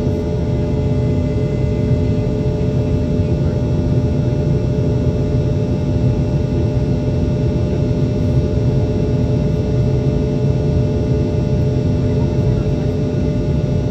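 Steady drone of a Boeing 717's rear-mounted Rolls-Royce BR715 turbofans heard inside the cabin near the tail: a low rumble with several steady hum tones, unchanging, as the airliner climbs out after takeoff.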